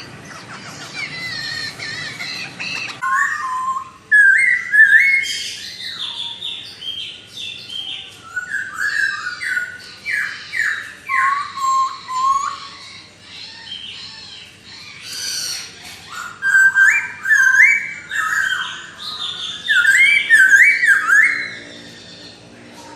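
Laughingthrush (poksay) singing loud, rapid, varied whistled phrases in three bursts with short pauses between them.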